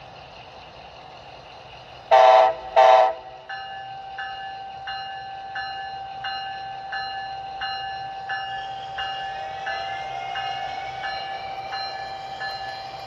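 HO scale Bachmann Siemens Charger model's DCC sound decoder, playing through its small onboard speaker: two short horn blasts about two seconds in, then the locomotive bell ringing at about one and a half strikes a second over a steady tone.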